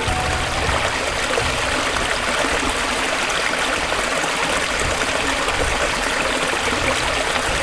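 Steady rushing of water, even and unbroken with no separate drops or splashes standing out.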